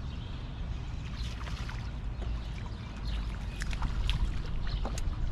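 Water trickling and splashing around a small fishing boat over a steady low rumble, with scattered light ticks.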